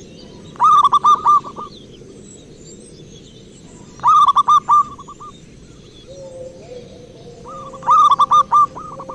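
Zebra dove (perkutut) cooing: three bouts of quick, clipped coo notes a few seconds apart, each bout about a second long.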